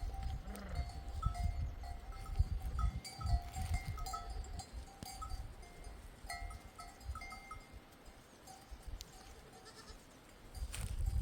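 A flock of goats and sheep with bells on the animals clinking on and off, over a low irregular rumble.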